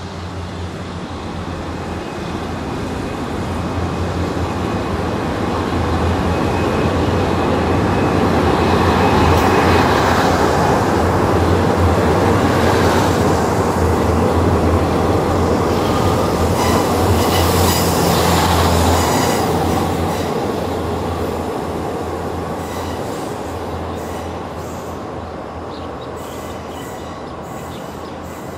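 Passenger train crossing a steel truss railway bridge: a continuous rumble of wheels on the rails and steel spans over a low hum. It builds to its loudest as the carriages pass close by, about a third of the way in, holds until about two thirds of the way through, then fades as the train moves off.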